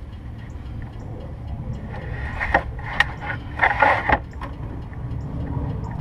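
Mercedes-Benz GLK 350's engine idling steadily, with a short run of sharp metallic clinks and rattles about two to four seconds in.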